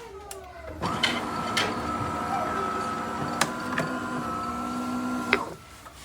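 De'Longhi Dinamica Plus bean-to-cup coffee machine running one of its motors: a steady mechanical hum that starts abruptly about a second in and cuts off about four and a half seconds later, with a few sharp clicks along the way.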